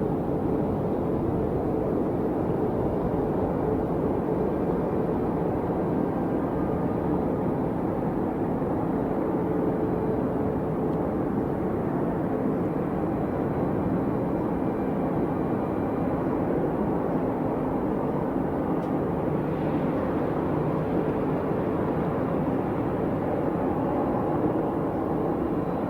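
Jet airliner engines running at a steady level, with faint steady hums under the noise.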